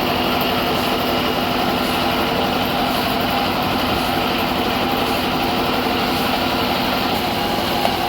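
Sawmill saw machinery running steadily, an even mechanical hum with a few held tones.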